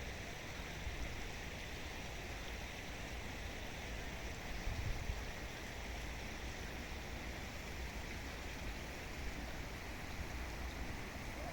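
Steady rush of water flowing in a small river, a modest stream of water running over its bed, with a low rumble underneath.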